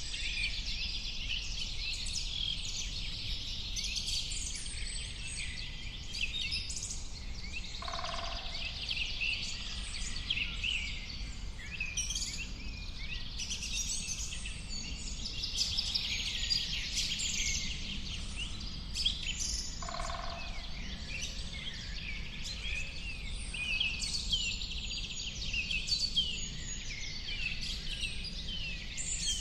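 Dense chorus of many songbirds chirping and twittering at once, with a short lower call twice, about twelve seconds apart, over a steady low rumble.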